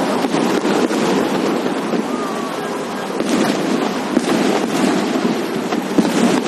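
Fireworks going off: many sharp pops and crackles in quick succession over a steady rumbling wash of noise.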